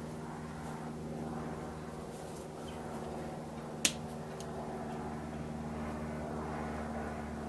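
A steady low mechanical hum, with one sharp click a little past the middle.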